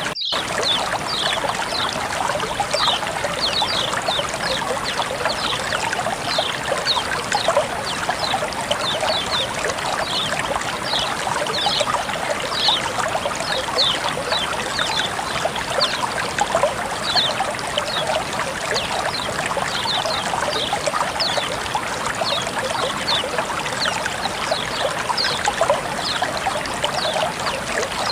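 Water flowing and trickling steadily, with a continual scatter of small high splashes and plinks.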